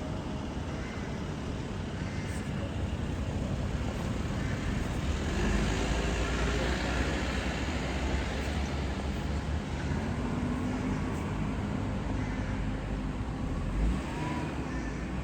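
Road traffic: a motor vehicle going by, a low rumble that swells about a third of the way in and stays up until near the end.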